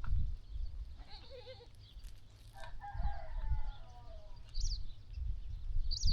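A rooster crows once, a drawn-out call that falls slightly in pitch from a little before the middle. High bird chirps come twice near the end, over a low rumble at the start and finish.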